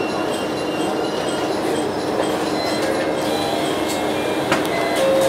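Diesel railcar heard from inside the cabin, rolling slowly: steady running noise with thin squeals from the wheels coming and going. A couple of sharp clicks come about four and a half and five seconds in.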